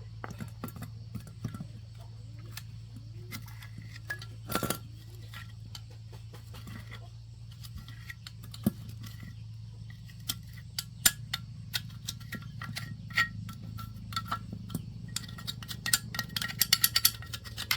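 Light metallic clinks and taps at an uneven pace, some ringing briefly, growing denser near the end, over a steady low hum.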